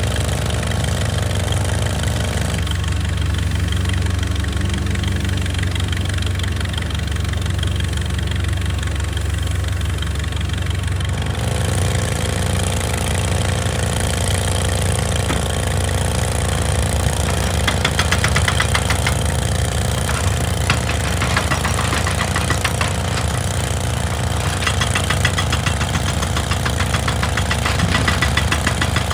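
Excavator's diesel engine running steadily. Its higher noise thins out for several seconds, and about halfway through a fast, even rattling rhythm joins in.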